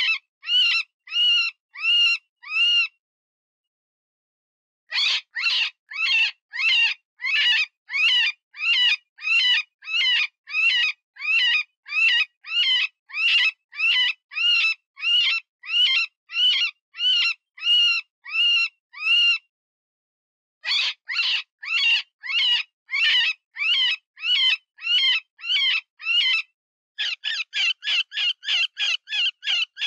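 Cottontail rabbit distress call, as used for predator calling: high, wavering squealing cries repeated about twice a second, in runs broken by two short pauses. Near the end the cries come faster, about three or four a second.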